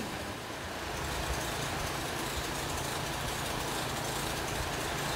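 A steady low engine rumble with a hiss over it, growing a little louder about a second in.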